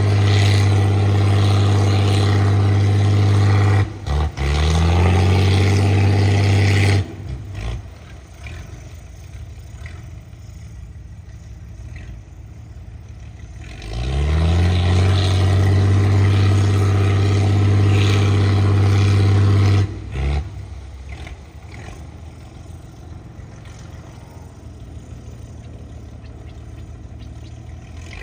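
Engine of a sludge-dredging boat running at high revs, dipping briefly about four seconds in and then dropping to a low idle about seven seconds in. It revs back up with a rising pitch about fourteen seconds in, runs loud, and drops back to idle near twenty seconds.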